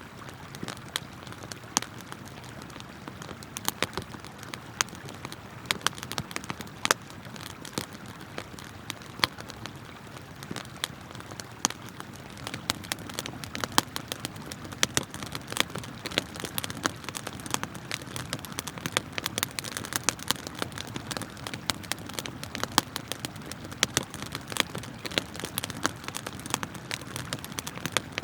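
Campfire wood crackling and popping in many irregular sharp snaps, over the steady rush of a flowing river.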